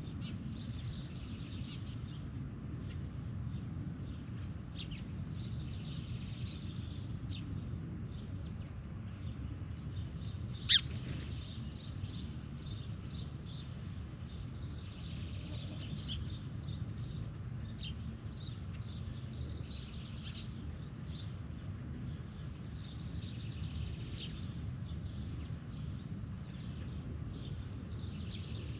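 Birds chirping on and off over a steady low outdoor rumble, with a single sharp click about eleven seconds in.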